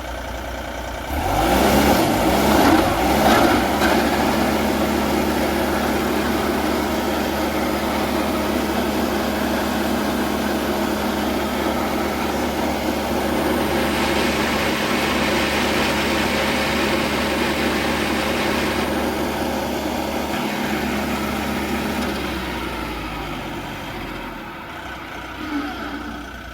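Vermeer SC48TX stump grinder running on a test run after a change to a new cutting wheel with Yellow Jacket teeth. The engine picks up sharply about a second in and runs steadily at speed for about twenty seconds, then winds down near the end. The machine sounds healthy.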